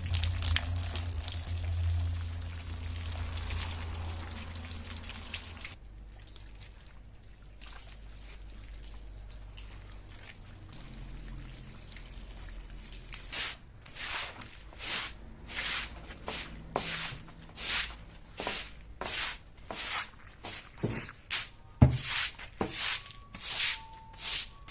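Wet scrubbing in soapy foam: a brush worked in short, even strokes, a little more than one a second, from about halfway through. Before that there is a steady rushing noise over a low hum, which fades out a quarter of the way in.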